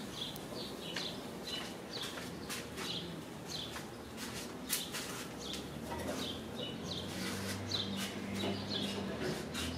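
Small birds chirping, short high chirps a few times a second, with a low hum joining in from about six seconds in.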